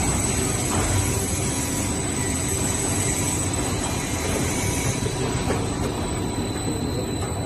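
Food-processing production line machinery running steadily: a dense mechanical rumble with faint steady whining tones above it.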